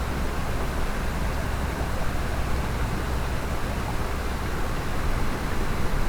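Mountain stream rushing steadily, a constant hiss of running water with a deep rumble.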